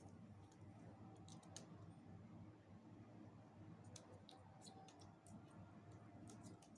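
Near silence with faint, scattered small clicks and taps in little clusters, a few times: an Alexandrine parakeet's beak tapping at a watermelon.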